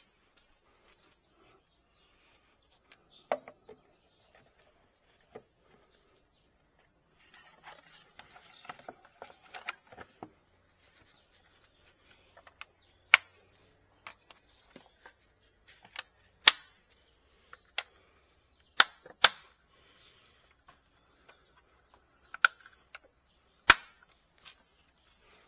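Hand work on car parts: a dozen or so sharp clicks and knocks at irregular intervals, like plastic parts, clips and tools being handled, with a few seconds of rustling about a third of the way in.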